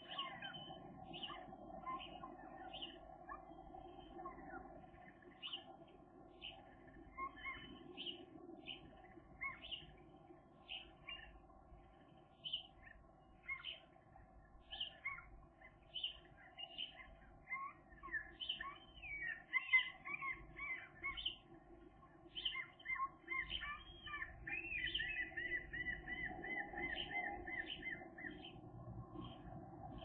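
Birds chirping, short high calls about twice a second, with a fast trill of about three seconds near the end, over a steady low hum.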